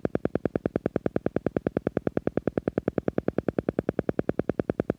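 Silva Method alpha sound: a steady, rapid pulsing tone, about ten even pulses a second, meant to lead the listener's brain into a relaxed alpha state.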